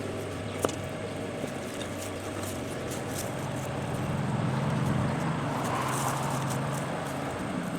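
Low motor rumble from a passing road vehicle, swelling about halfway through and fading near the end, with one sharp click under a second in.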